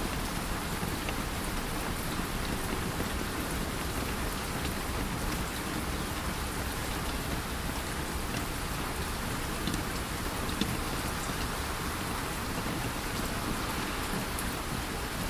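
Steady rain falling, an even hiss with scattered individual drop ticks and one sharper tick about ten seconds in.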